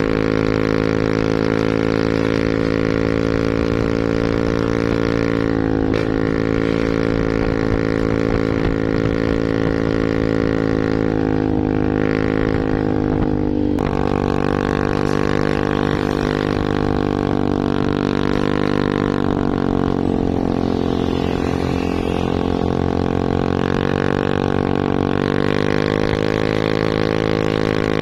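Truck engine running with a steady drone, its pitch dipping and rising slightly a few times.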